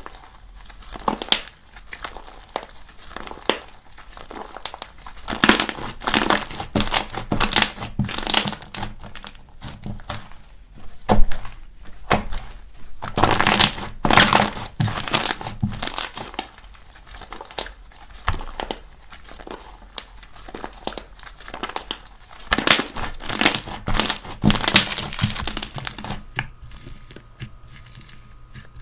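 Slime being squeezed and worked by hand, making dense, irregular crackling and popping in clusters.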